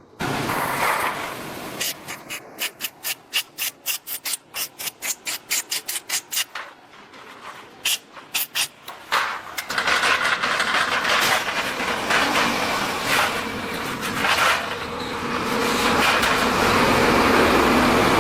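Rapid back-and-forth abrasive scraping strokes, about three a second, giving way about halfway through to a continuous rough scraping noise.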